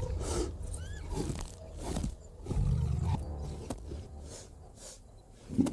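Deep animal growls in several short bouts, with a couple of brief high rising calls about one and a half seconds in.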